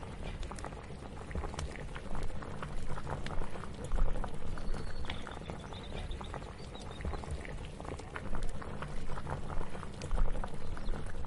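Kitchen ambience of something bubbling on the boil, with many small pops and clicks over a steady low rumble.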